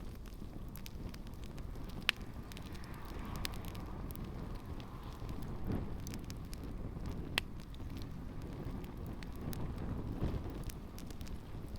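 Campfire burning with shoes in it: a steady low rumble of flames with scattered sharp crackles and pops, two louder pops about two seconds in and a little past seven seconds.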